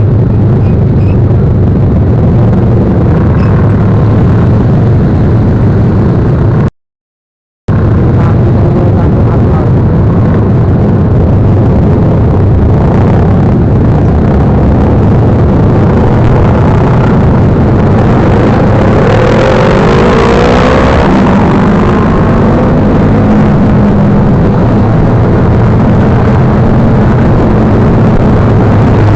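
Motorcycle engine running with a steady, loud rumble, cutting out completely for about a second a quarter of the way in. A rising-then-falling sweep in pitch comes about two-thirds through.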